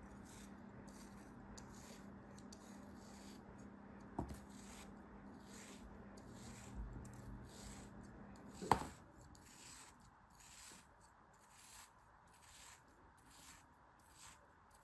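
Soft rubbing and scraping strokes of hand handling, a little more than one a second, with a knock about four seconds in and a sharp click near the middle, where a low steady hum stops.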